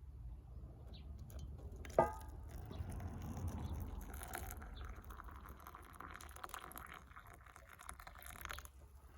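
A single sharp clink with a brief ring, then liquid is poured steadily into a cup for about four seconds before stopping abruptly.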